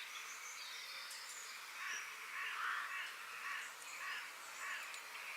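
Birds calling: from about two seconds in, one call repeats steadily, roughly one to two a second, with a few faint higher chirps.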